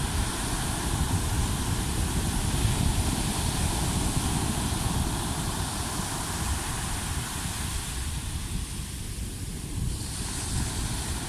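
Sea waves washing on the shore, with wind buffeting the microphone in a gusty low rumble. The hiss of the surf thins out about eight seconds in and swells again near the end.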